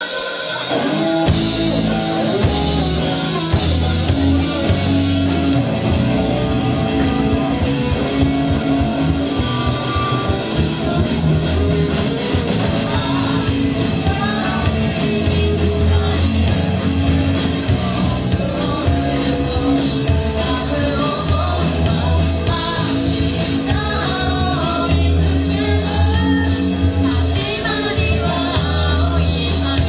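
Rock music played by a band, with a singing voice over the instruments.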